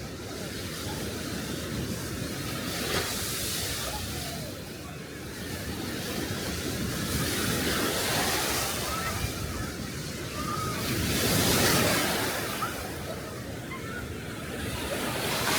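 Small sea waves breaking and washing up on the shore, the rush swelling and easing every few seconds.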